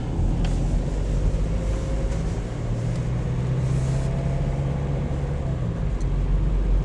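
Car driving, heard from inside the cabin: steady low rumble of engine and tyres on the road, with the engine note holding steady for a few seconds midway.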